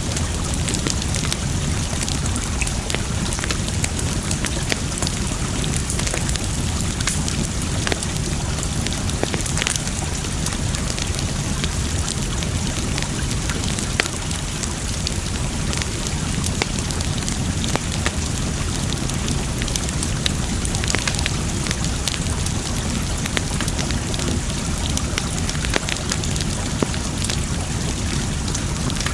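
Campfire wood crackling and popping in irregular sharp clicks over a steady rush of water.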